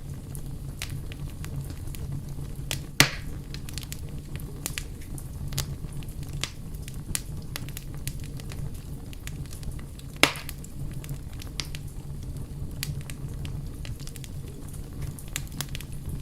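Fire crackling: a steady low rumble under constant irregular crackles, with two loud pops, about three seconds in and about ten seconds in.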